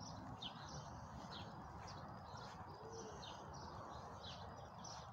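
Small birds chirping over a faint steady background hiss, with short high calls repeating several times a second.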